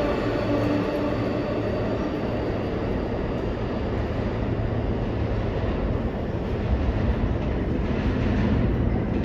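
New York City Subway train running along the track at the station: a steady low rumble of wheels on rail.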